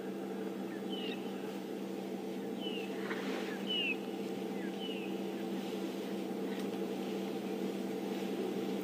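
A bird calls in short chirps that fall in pitch, about five of them in the first half, over a steady low mechanical hum.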